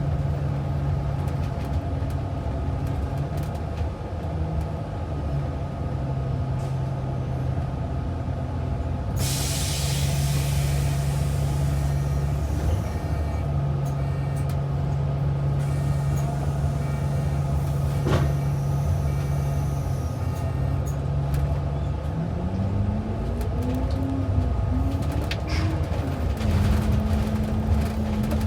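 A city bus in motion, heard from inside: a steady engine hum and road noise, with a burst of hiss about nine seconds in. Near the end the engine's pitch rises as the bus picks up speed, then holds steady at the higher note.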